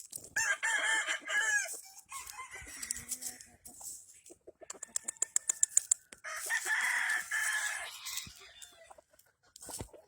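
Gamefowl roosters crowing: two long crows about six seconds apart, with a quick run of clicks between them.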